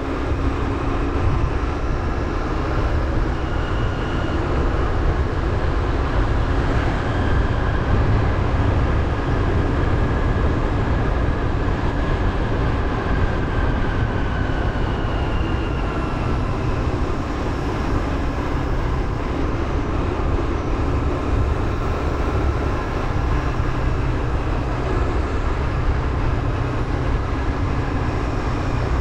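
Motorbike on the move: a steady engine hum under a rumble of wind on the microphone. A faint whine drifts slightly lower in pitch about halfway through.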